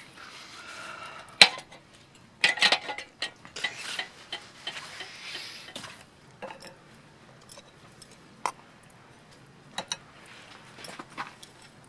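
Scattered clinks and knocks of camp cookware and utensils, metal and dishes being handled, with a sharp clink about a second and a half in.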